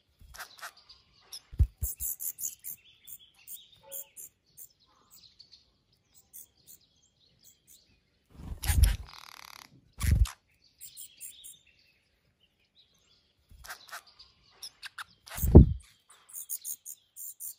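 Short runs of rapid, high-pitched bird chirps, broken by a few loud, dull thumps.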